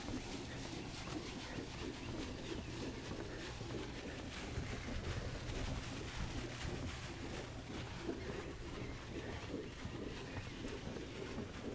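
Birds calling outdoors, with low cooing calls, over a low steady background hum.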